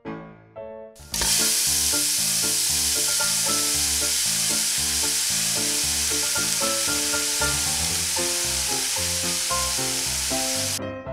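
Potato pieces sizzling loudly in hot oil in a stainless steel pan as they are stirred with a wooden spatula. The steady sizzle starts suddenly about a second in and cuts off just before the end, over background music.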